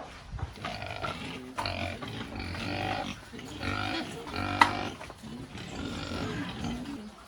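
Pigs calling, a run of pitched calls broken by short pauses, with one sharp click about four and a half seconds in.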